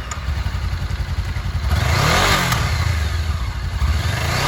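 2014 Honda CB500F's 471 cc parallel-twin engine idling, revved once about two seconds in with the pitch climbing and falling back, then revved again near the end.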